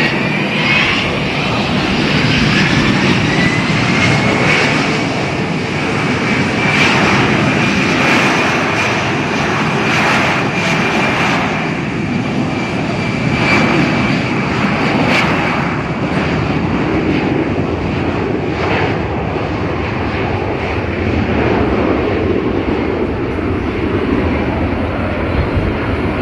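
Airliner's engines running loud on or near the runway: a whine that rises over the first couple of seconds and then holds steady, over a continuous rushing noise.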